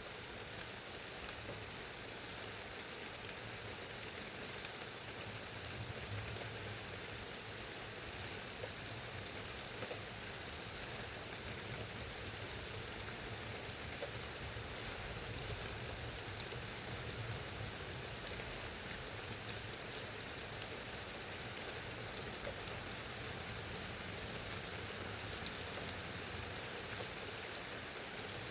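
Steady rain falling as an even hiss. A short, high chirp repeats every few seconds.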